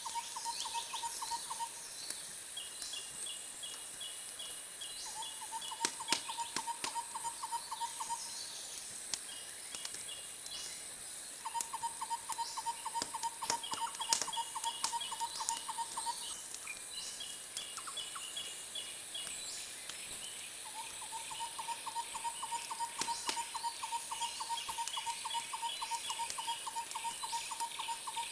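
Repeated trilling animal calls, four runs of rapid pulses lasting a few seconds each, with faster chattering calls higher up over a steady high hiss. Scattered sharp crackles like a wood fire come through now and then.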